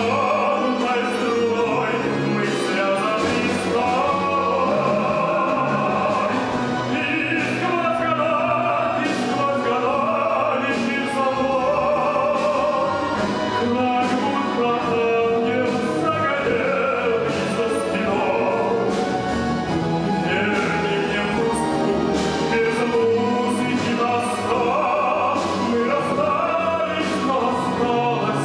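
Live orchestra playing with a singer: a wavering, vibrato voice over instrumental accompaniment, with percussion strikes marking a steady beat.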